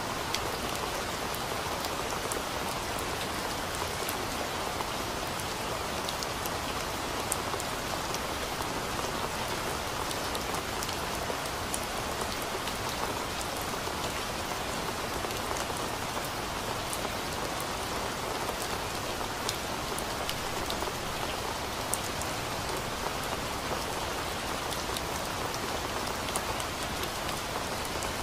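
Steady rain: an even, continuous hiss with scattered sharp ticks of individual drops striking nearby.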